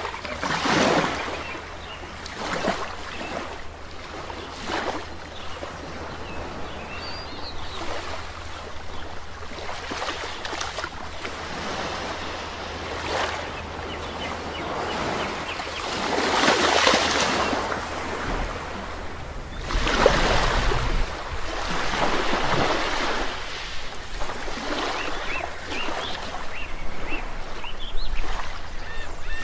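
Sea waves breaking and washing onto a shore, one surge every few seconds, the biggest about two-thirds of the way through. A few faint bird chirps come through near the end.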